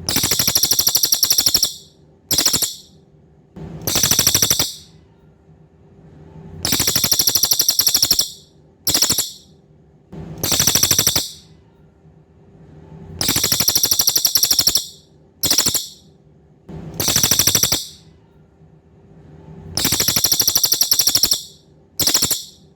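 Cililin songbird song: loud, very high-pitched rapid rattling trills of a second or so, each followed by a short burst, in a pattern that repeats about every six and a half seconds like a looped recording. A faint steady hum runs between the phrases.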